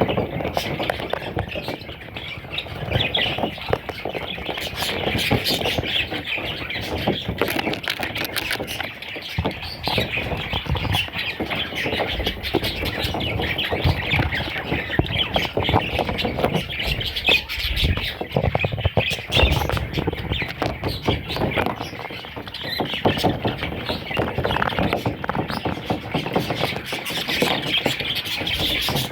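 Parrot chicks squawking and chirping nonstop, many rapid raspy calls overlapping.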